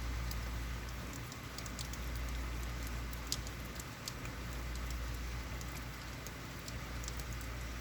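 Steady heavy rain with scattered sharp drips and patter, over a low rumble.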